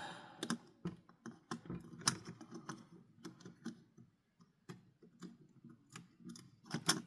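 Irregular small clicks and taps as parts and wires of a toy fire truck are handled during a repair, with faint rubbing and handling noise between them.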